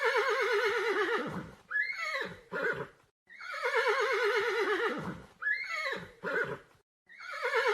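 Horse whinnying: a long call with a shaky, falling pitch, followed by two short calls. The sequence comes twice, and a third whinny starts near the end.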